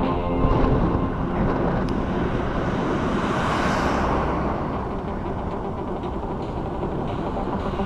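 Road vehicle noise: a low engine hum with a vehicle passing by, its tyre hiss swelling and fading about three to four seconds in.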